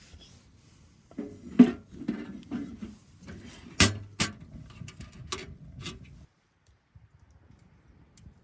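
Objects being handled: an irregular run of sharp knocks and clicks with some rustling, the loudest about one and a half seconds in, stopping about six seconds in.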